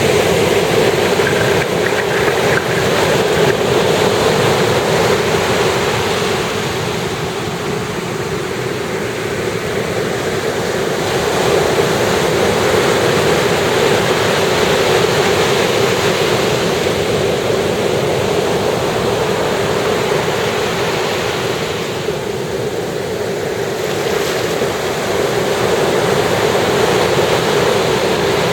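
Sea waves breaking and washing up on a beach, a continuous wash of surf that swells and eases slowly over the seconds.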